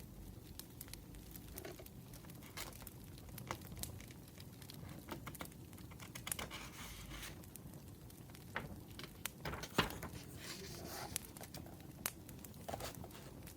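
Crackling wood fire: irregular small pops and clicks, with soft paper rustling twice, like pages or wrapping being handled.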